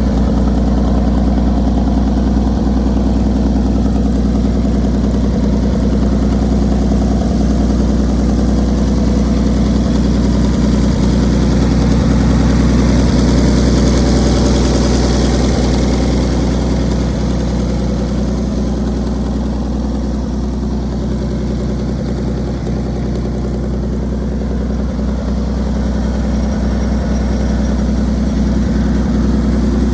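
1958 Farmall 560's gasoline six-cylinder engine idling steadily.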